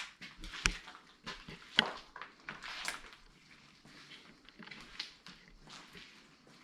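Footsteps crunching over rubble and debris: a run of irregular crunches and knocks, with two sharper ones in the first two seconds.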